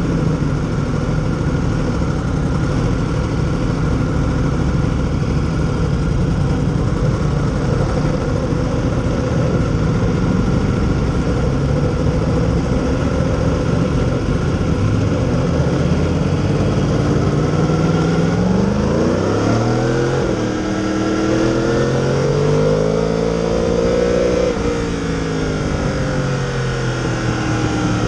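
Yamaha R1 sport bike's inline-four engine running under a rushing noise, then from about two-thirds of the way through its revs climb, drop sharply and climb again as it pulls through the gears.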